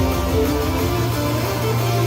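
Music played at full volume through a JBL PartyBox 100 Bluetooth speaker: a melody of short notes over a bass note that holds steady from about a second in.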